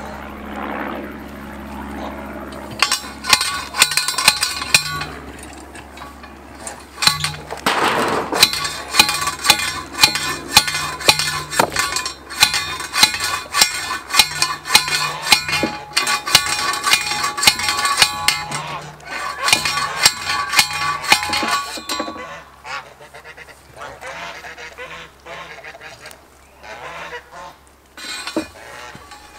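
Geese honking over and over, a dense run of loud calls that thins out in the last third.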